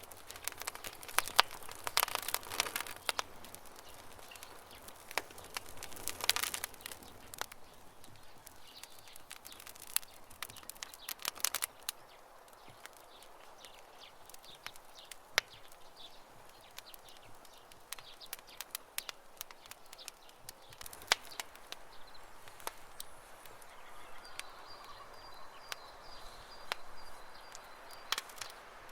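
Campfire crackling, the burning wood popping and snapping at irregular intervals, with denser bursts of crackle in the first few seconds and again about six seconds in. A faint high bird trill comes in near the end.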